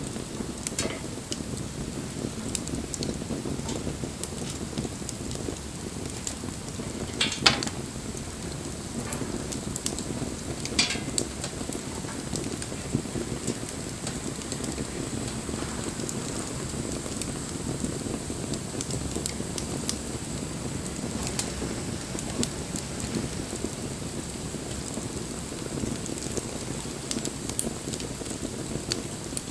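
Wood fire burning: a steady low rush of flames with frequent small crackles and pops, and two louder snaps at about seven and eleven seconds in.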